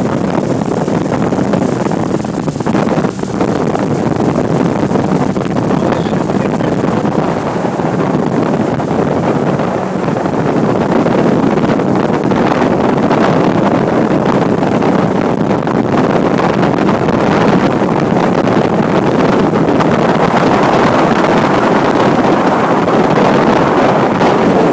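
Motorboat under way: steady engine and water noise overlaid by heavy wind buffeting on the microphone.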